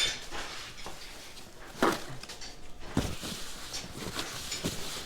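Irregular knocks and clanks of metal parts and tools being handled, with one louder, sharper clank about two seconds in.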